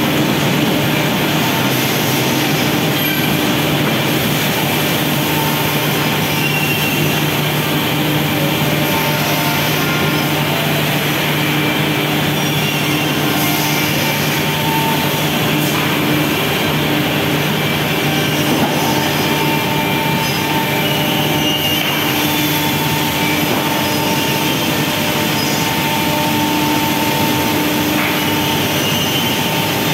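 Steady running noise of factory machinery, a constant dense drone with a few fixed hum tones through it, with no pauses or impacts.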